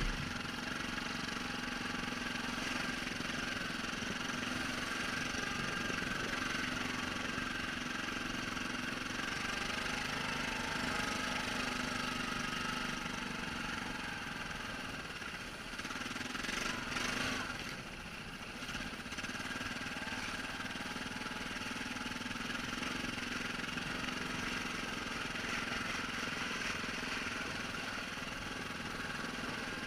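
ATV engine running steadily at low revs. Just past halfway there is a short burst of noise, and the engine sound dips briefly.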